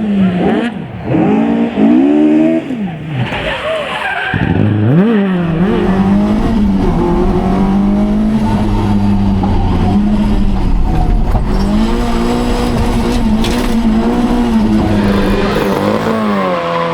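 Rally car engine revving hard, its pitch sweeping quickly up and down several times, then held at steady high revs for about ten seconds with tyre noise beneath it, as when a car slides in a spin.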